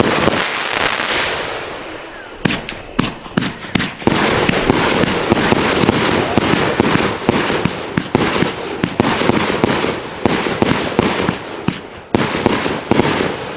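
Fisherman Fireworks 'White Noise' 500-gram, 26-shot cake firing. A loud bang at the start fades into a hiss, sharp shots follow from about two and a half seconds in, and they build into dense, continuous crackling. After a brief dip near the end, separate bangs come again.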